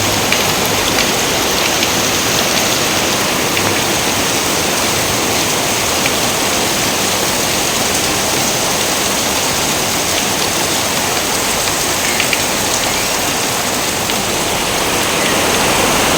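Steady rain: a dense, even hiss with scattered sharp drop ticks.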